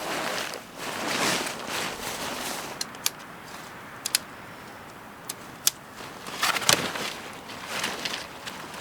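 Tent being pitched: rustling of tent fabric and gear, with about six sharp clicks in the middle as parts snap into place.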